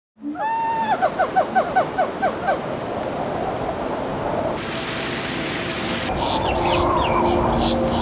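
A bird calling: one rising whistle, then a quick run of about eight falling notes, over a steady outdoor hiss. About six seconds in, sustained low tones and rapid high chirping join in.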